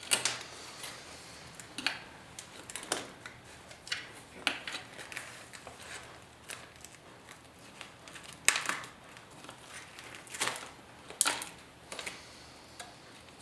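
Irregular sharp clicks, snaps and scrapes as old vinyl upholstery and welting are pulled and pried off a rusty metal motorcycle seat pan, with the loudest snaps a little past the middle.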